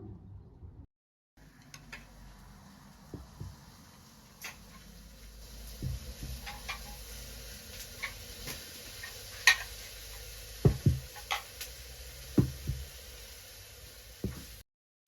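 Scattered light knocks and clicks, like small objects being handled and set down, over a faint steady hum, with the louder knocks coming in the second half.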